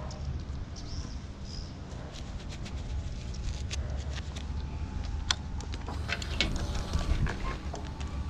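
Stock motorcycle engine idling steadily, the even 'sewing machine' hum of a smooth-running standard engine, with scattered clicks and taps over it, more of them in the second half.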